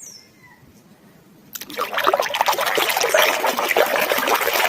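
Water splashing and sloshing as a muddy plastic toy animal is swished and scrubbed by hand in a basin of water, starting about a second and a half in after a quiet moment.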